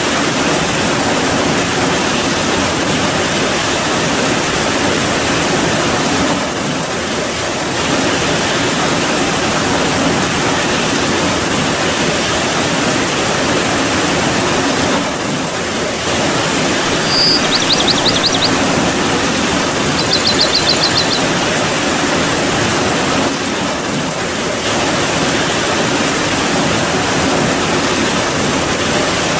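Steady rainfall, an even dense hiss. Two short high trills come about three seconds apart, a little past the middle.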